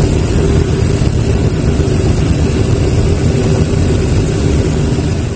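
Loud, steady drone of an aircraft engine with a deep rumble and a steady hum, easing slightly at the very end.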